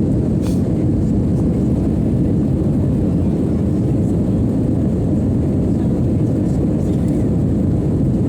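Jet airliner's engines, a loud steady low rumble with no change in pitch.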